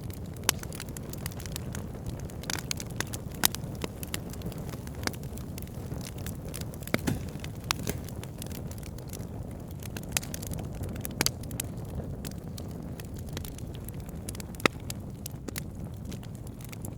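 Burning logs in a wood fire crackling, with irregular sharp pops over the steady low rush of the flames.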